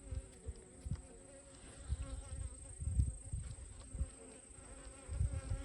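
Honeybees buzzing around an opened hive, a faint steady hum, with irregular low thumps and rumbles on the microphone that are louder than the hum.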